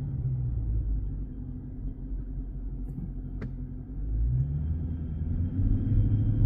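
Chrysler 300C's 6.4-litre HEMI V8 running at a low, steady cruise, heard from inside the car, its pitch rising a little and growing louder from about four seconds in as it gathers speed.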